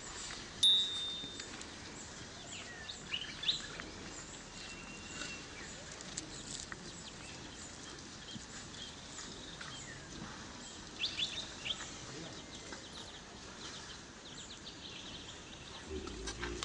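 Outdoor background sound with scattered bird chirps and squeaks, and a short, sharp high whistle about a second in.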